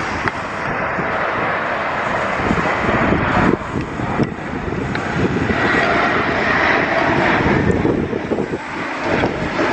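Airliner on final approach in gusty wind, its engines running and swelling louder a little past the middle before easing near the end, with heavy wind buffeting on the microphone throughout.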